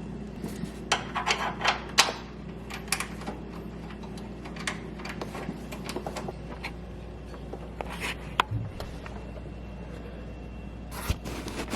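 Scattered metallic clicks and knocks of hand tools and bolts as exhaust hanger bolts are started, over a steady low hum.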